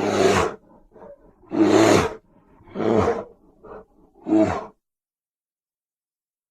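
Big-cat-style creature roars used as a sound effect: four loud, rough roars about half a second each, with short grunts between, then silence from about two-thirds of the way in.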